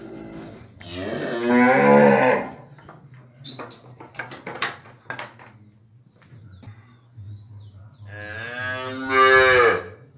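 A cow mooing twice: two long, loud moos about six seconds apart. A few short clicks fall between the moos, and a low steady hum runs underneath.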